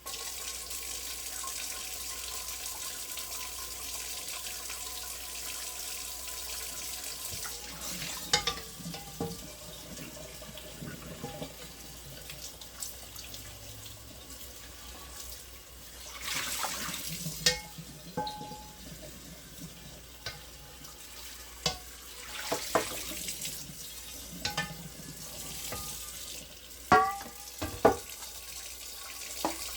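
Water running from a tap into a sink, switched on suddenly at the start and left running, with a handful of sharp clinks that ring briefly.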